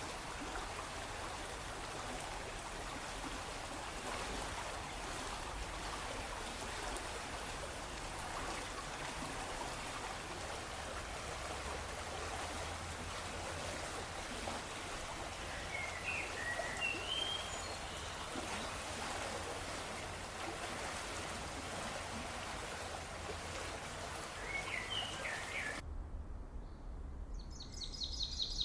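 Water splashing steadily, with a few short bird chirps about halfway through and again later. The water sound cuts off suddenly a few seconds before the end, leaving a low rumble and higher-pitched birdsong.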